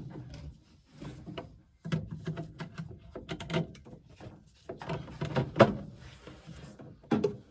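Irregular knocking, clicking and clattering of furnace parts being handled and worked loose while the pressure switch tubes and collector box come off. The loudest knock is about five and a half seconds in.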